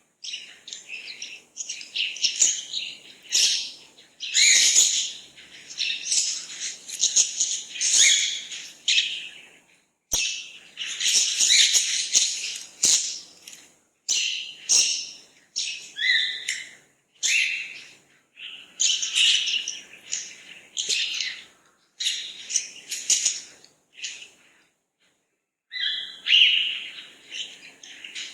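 Birds chirping and singing almost without a break, in quick high twittering phrases, with a pause of about a second and a half near the end.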